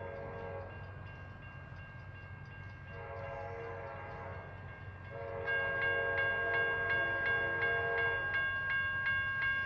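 CSX freight locomotive's air horn sounding in long blasts as the train approaches: one blast ends just after the start, then two more come at about three and five seconds in. From about five seconds in, a bell rings rapidly, about three strokes a second, and the sound grows louder.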